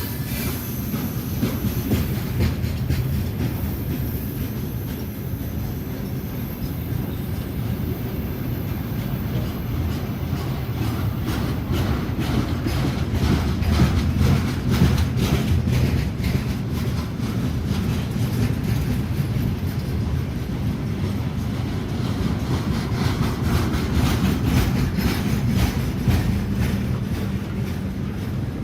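Train passing by on the railway: a steady low rumble of wheels on rails with a long, rapid run of clicks as the wheels cross rail joints. A high wheel squeal fades out just at the start.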